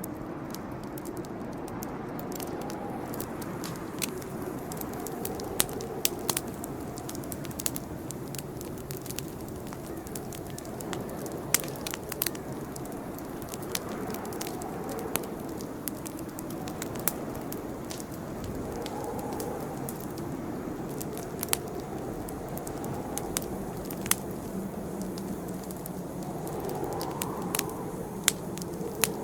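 Campfire burning: a steady soft rush of flames with frequent sharp crackles and pops, a handful of them louder than the rest.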